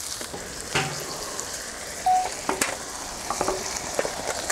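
Vegetables frying in a steel wok over an open fire: a steady sizzle, with a few short sharp clicks and knocks.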